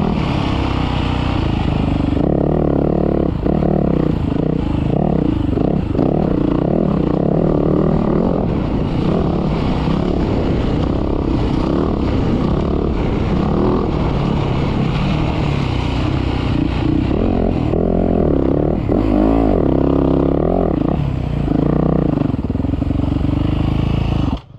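Motocross bike engine revving up and down continuously as it is ridden, its pitch rising and falling with the throttle.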